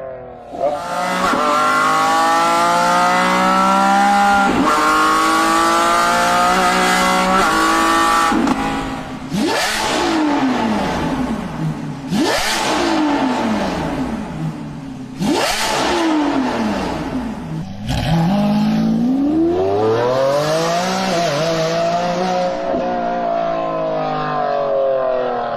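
Lamborghini Revuelto's 6.5-litre V12 running through an Astek aftermarket exhaust under hard driving. Its pitch climbs steadily for several seconds and then jumps sharply three times, each jump followed by a long falling sweep. Near the end a slow rise and fall in pitch follows.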